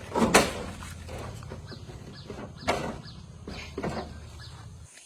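JCB 3DX backhoe loader's diesel engine running steadily under a series of knocks and creaks from the digging arm and bucket, three of them louder: near the start, a little past halfway and near the end. The sound cuts off abruptly just before the end.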